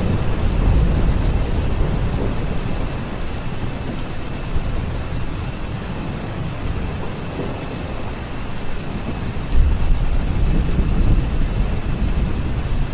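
Steady heavy rain with low rolling thunder, the rumble swelling at the start and again about nine and a half seconds in.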